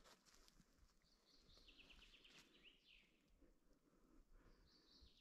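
Faint songbird singing: a short phrase with a quick run of repeated notes about a second and a half in, and another phrase just before the end, over near-silent forest quiet.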